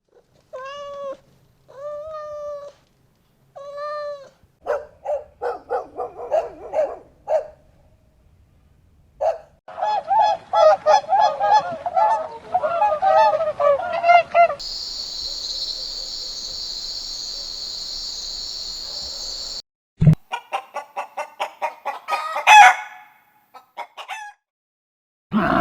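Domestic poultry calling: three separate drawn-out calls, then runs of quick repeated calls and a dense flock chorus. About halfway through, a steady hiss lasts around five seconds, followed by more quick calls and a loud burst near the end.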